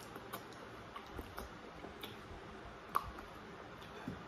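A man chewing okra: faint, scattered wet mouth clicks, with one louder click about three seconds in.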